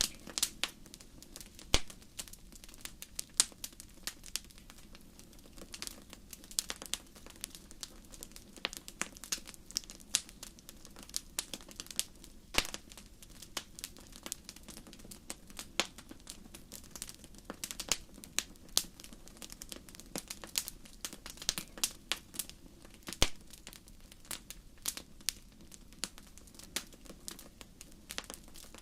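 Wood fire crackling: irregular sharp pops and snaps, some louder than others, over a soft steady low hiss.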